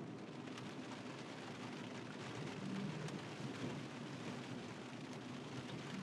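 Rain falling on a moving car, a steady hiss over low road and tyre noise, with a few light raindrop ticks.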